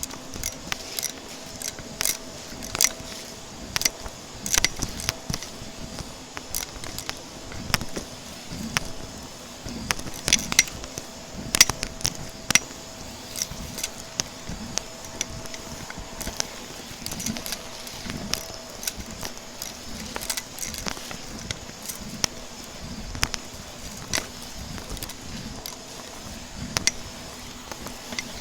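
Vacuum cleaner running with a steady hum, with many irregular sharp clicks and crackles as crunchy debris is sucked up.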